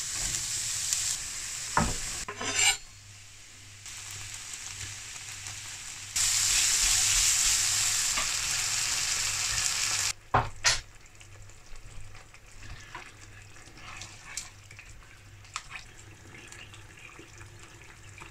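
Diced vegetables sizzling as they fry in a frying pan, with a few knocks of a utensil against the pan. A second, louder stretch of sizzling cuts off suddenly about ten seconds in, leaving quieter clinks and scrapes.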